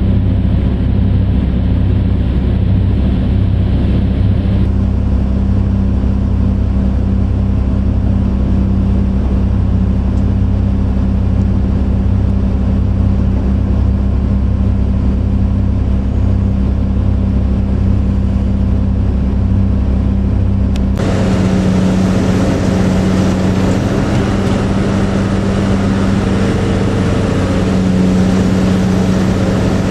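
Heavy mining machinery's big diesel engines running steadily with a low drone. The engine sound changes abruptly about two-thirds of the way through.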